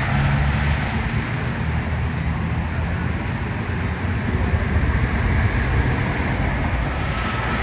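Steady low rumble of a vehicle engine running, with road traffic noise.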